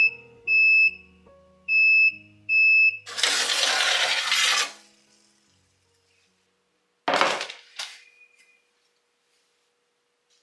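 Four short, high electronic beeps in the first three seconds, over soft music. A burst of hiss follows, then a sharp noise with a smaller one just after it around seven seconds in.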